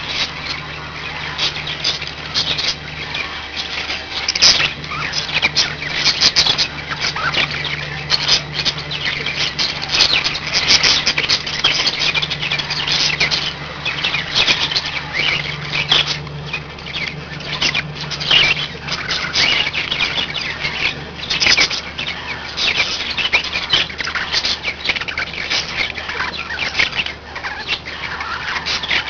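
Budgerigars chattering: a steady stream of short, high chirps and warbles from several birds, over a low steady hum.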